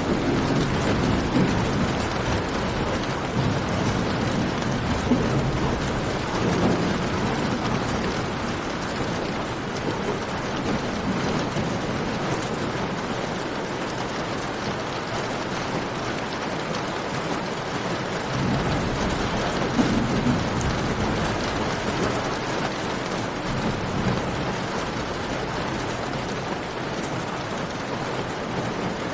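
Steady rain falling in a cave mixed with a crackling campfire, a few sharp pops standing out over the rain. A low rumble swells and fades every few seconds.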